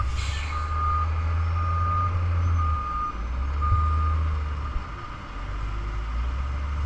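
Gravel truck's engine running low and steady while its reversing alarm beeps about once a second, four times, then stops. A short hiss at the very start.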